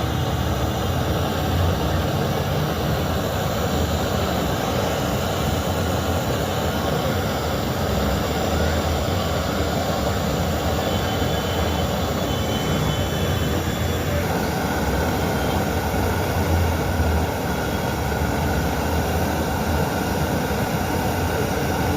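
Steady, loud mechanical rumbling noise with no pauses, changing slightly in texture about two-thirds of the way through.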